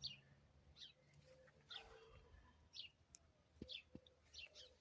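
Faint bird chirping: short high chirps repeated about once a second.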